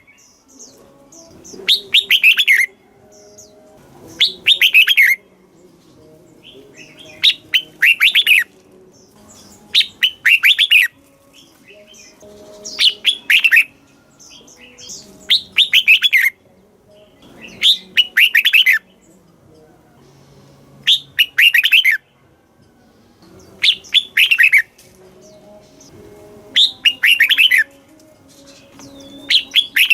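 Red-whiskered bulbul singing: short, loud, bubbling song phrases of quick falling notes, repeated about every two and a half seconds.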